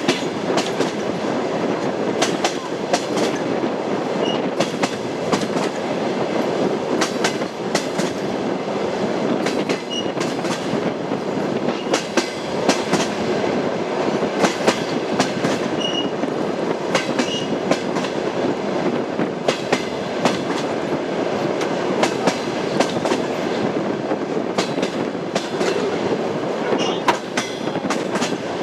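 Passenger train's wheels clattering over the rail joints of jointed track at speed: a clickety-clack of sharp knocks repeating over a steady rolling rumble.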